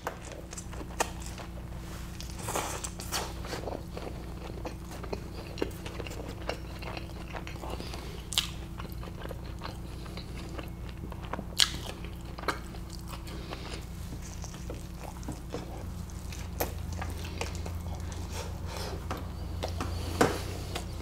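Close-miked chewing of a mouthful of soft flour-tortilla carne asada taco: irregular wet mouth and lip clicks, a few of them sharper, over a low steady hum.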